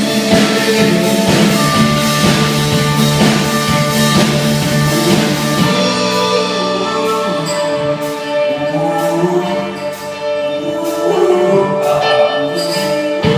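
Rock band playing live amplified music on stage, with guitar and drums: a full, dense passage for about the first six seconds, then a sparser stretch with sharp drum hits over held notes.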